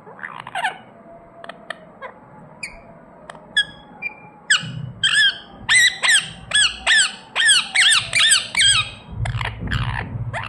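Pet parrot calling with short, sharp, high-pitched chirps, scattered at first and then a quick run of repeated calls, about three a second, from about five seconds in.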